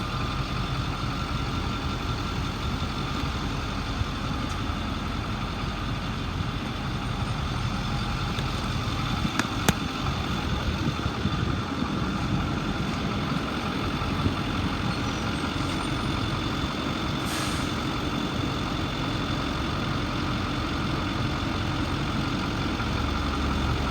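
Ford 6.4 liter Power Stroke V8 diesel engine idling steadily. A single sharp click comes about ten seconds in.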